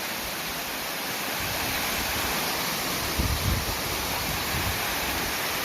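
Waterfall: a steady rush of falling water, with a brief low rumble a little over three seconds in.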